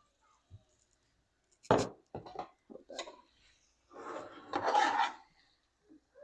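Pots and utensils clattering at the stove: a few sharp knocks, then about a second of denser rattling a little past the middle.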